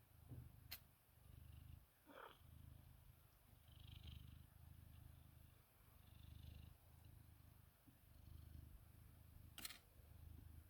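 Cat purring, in slow, even pulses about a second long, with two sharp clicks and a brief sliding squeak about two seconds in.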